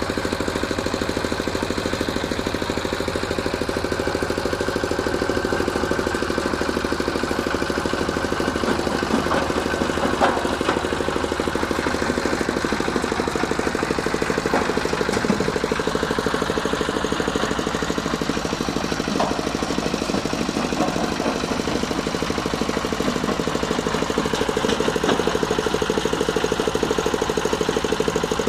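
Changchai L24 single-cylinder diesel engine running steadily under work, with a few sharp knocks about ten, fifteen and nineteen seconds in.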